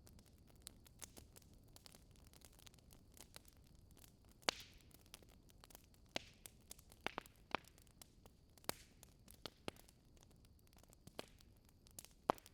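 Fire in a fireplace crackling quietly, with scattered sharp pops at irregular intervals. The loudest pops come about four and a half seconds in and near the end.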